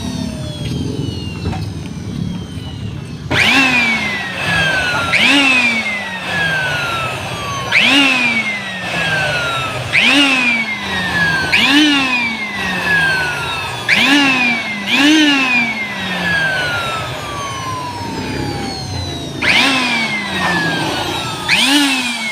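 Handheld electric blower blowing out a chiller's condenser coil, pulsed on and off about nine times. Each time it whines up quickly, then winds slowly down in pitch.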